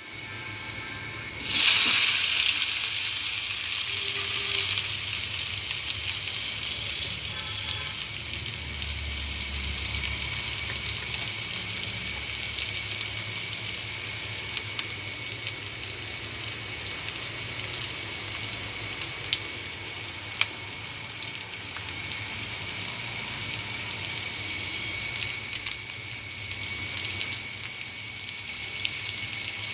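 Food sizzling in a hot pan: the sizzle jumps loud about a second and a half in, as if the food has just gone into the oil, then settles to a steady hiss.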